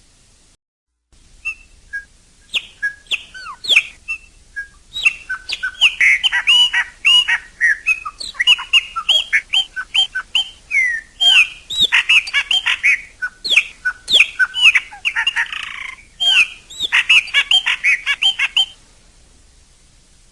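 Chopi blackbird (pássaro-preto) singing a long, rapid run of varied whistled notes, slurred glides and chatters, starting after a couple of seconds and stopping a little before the end, over a faint steady hiss.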